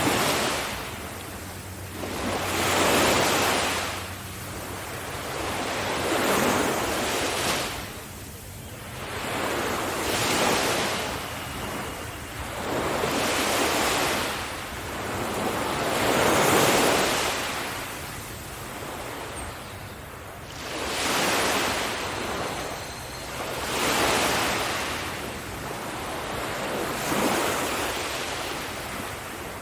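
Ocean surf breaking and washing up a beach: a rush of water that swells and falls away about every three to four seconds, wave after wave.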